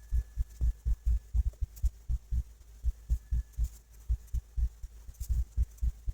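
Irregular dull low thumps, several a second, from a hand drawing with a pen on paper laid on a table.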